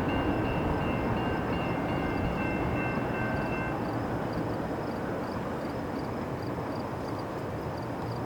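Long CN freight train rolling by and receding, a steady rumble of wheels on rail that slowly fades. A steady high ringing tone sounds over it and stops about a third of the way in.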